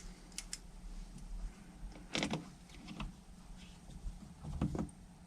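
A few faint clicks and scrapes of small screws and a hand tool being worked into motorcycle carburettors, the clearest about two seconds in and again near the end, over a low steady hum.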